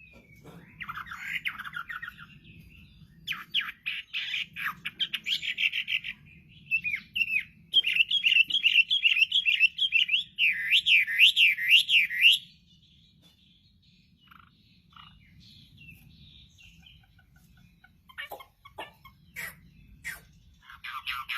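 Chinese hwamei (melodious laughingthrush) singing loud, varied whistled phrases. The song builds into a long, fast run of notes sweeping up and down around the middle, falls quiet for a few seconds, then resumes with short sharp notes near the end.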